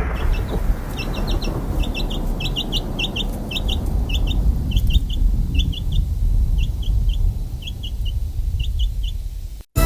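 Chicks peeping, short high chirps coming in quick clusters of two to four, over a steady rain-like hiss. Everything cuts off abruptly near the end.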